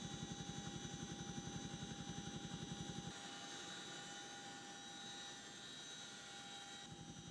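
CH-47 Chinook tandem-rotor helicopter running, with a rapid, even beat from the rotors under a steady high whine. The sound changes abruptly about three seconds in and again near the end, with the beat fainter in between.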